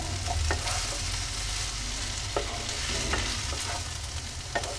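Chopped bakla beans and potatoes sizzling in oil in a non-stick pan while a spatula stirs and tosses them, with a few sharper scrapes of the spatula against the pan, as the ground spices are fried in.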